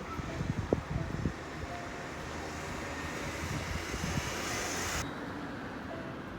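Outdoor ambience: wind buffeting the microphone in uneven low thumps, then a steady rushing noise that swells and cuts off suddenly about five seconds in.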